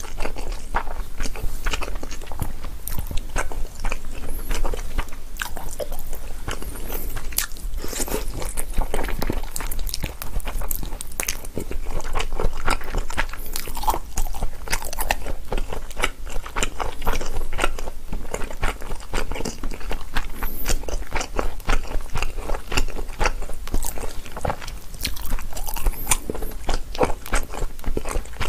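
A person chewing mouthfuls of chicken breast steak and Chapagetti black-bean noodles, a continuous run of quick wet mouth clicks and squelches.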